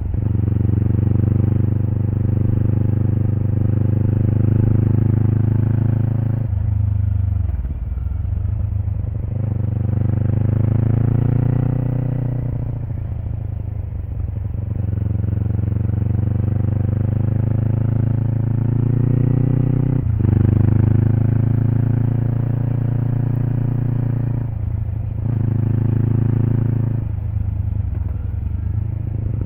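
Exhaust of a Kawasaki Eliminator SE parallel-twin through a BEAMS Power Header W muffler, recorded close to the exhaust while riding. The engine note rises and falls, dropping off several times as the throttle closes or gears change and then building again.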